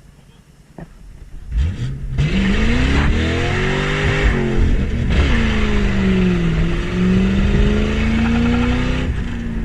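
Ford Mustang GT's 4.6-litre two-valve V8 with the mufflers deleted, accelerating hard: a rising pull, an upshift about five seconds in, a second rising pull, then the throttle lifting near the end.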